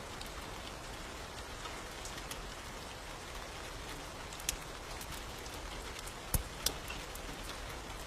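Steady rain hiss with a few sharp crackles, two of them close together about six and a half seconds in.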